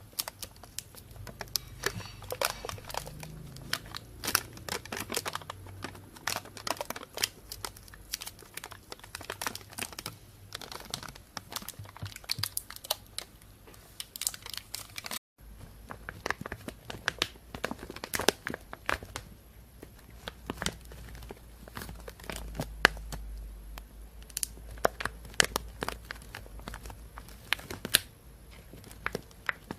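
Thin plastic carrier bag being handled and crumpled: a dense run of sharp crinkles and crackles. The sound drops out for an instant about halfway through.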